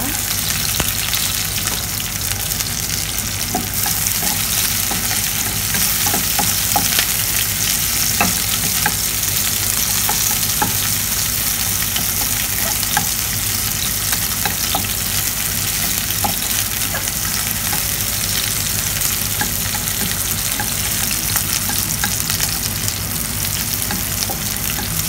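Sliced onions and ginger strips sizzling in hot cooking oil in a frying pan, the sizzle growing louder a few seconds in. A wooden spatula stirs them, with small clicks and taps now and then.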